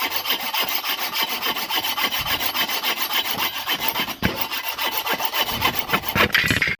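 Mini saw cutting through wood, a fast, even run of rasping strokes.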